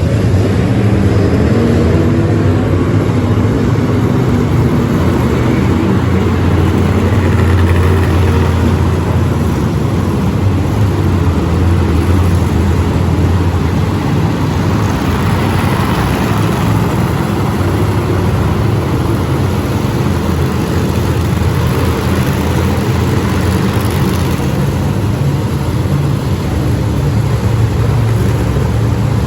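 Loud, continuous engine noise from monster trucks running and revving, swelling in the middle.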